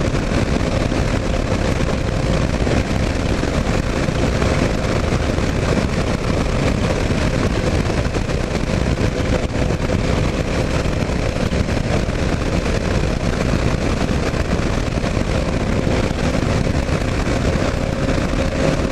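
Steady rush of wind and road noise with the running single-cylinder engine of a 2009 Kawasaki KLR 650 at highway cruising speed, with a faint steady drone.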